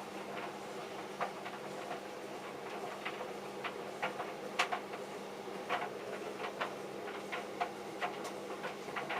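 Two tumble dryers running with a steady hum, one a vented dryer and one a heat pump dryer, over irregular clicks and knocks from loads of jeans tumbling in the drums.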